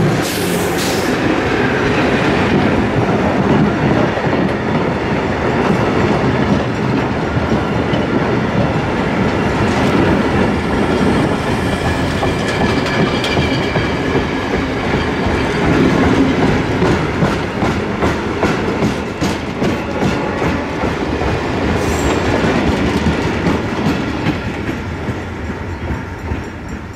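Freight train wagons rolling past close by, their wheels clattering over the rail joints with a steady clickety-clack. The sound fades away near the end as the last of the train goes by.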